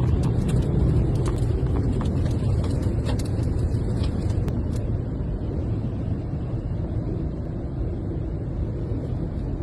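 Strong storm wind rumbling steadily on the microphone, with scattered light ticks and knocks.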